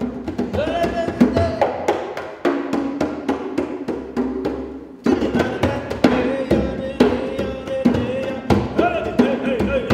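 Live improvised music by one multi-instrumentalist: quick, uneven percussion strikes under a held, slightly bending melody line, with a brief lull about halfway through.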